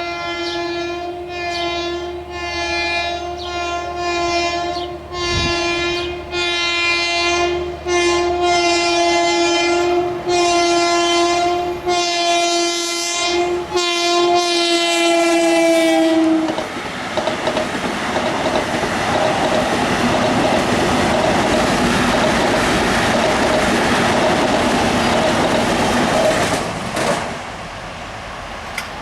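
Long Island Rail Road train's multi-note air horn sounding a string of blasts for a grade crossing, the last one held long. The train then passes close by, its wheels rumbling and clacking over the rails, and the noise drops off near the end.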